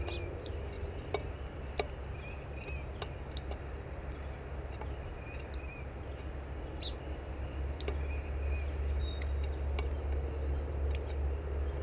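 Birds at a feeder pecking and tapping: scattered sharp clicks and taps, a few of them louder, over a steady low hum.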